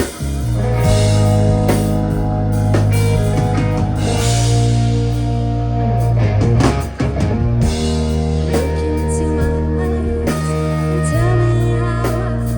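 Rock band playing live, with electric guitar over drums and a heavy, sustained low end, in a psychedelic rock style.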